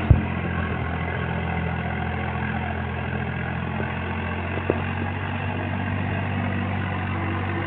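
Swaraj tractor's diesel engine running steadily, with two brief clicks: one just after the start and one about halfway through.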